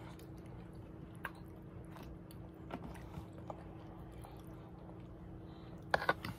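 Faint chewing and mouth sounds as children eat small strawberry-chocolate cone candies, with a few soft clicks and a sharper cluster of clicks about six seconds in, over a steady low hum.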